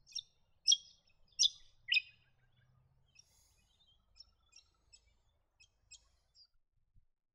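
Woodswallow calls: about four loud, short, harsh notes in the first two seconds, followed by a run of fainter, quicker chips.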